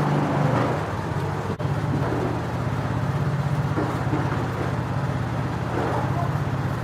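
Daewoo Matiz car engine idling steadily with an even, rapid pulse, briefly cut off about one and a half seconds in.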